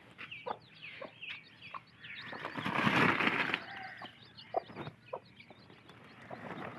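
Chicks peeping rapidly and continuously, with short clucks from a hen scattered through, and a louder rustling burst, like flapping wings, about two and a half to three and a half seconds in.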